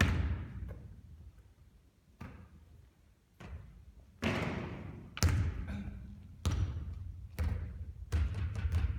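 Basketball thudding and bouncing on a court, about seven separate hits at uneven intervals, then a quick run of smaller bounces near the end, each ringing on briefly.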